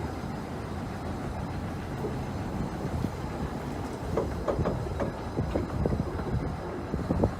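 Small 15-inch-gauge railway train running along the track: a steady low rumble, with a run of clicks and knocks from the wheels in the second half.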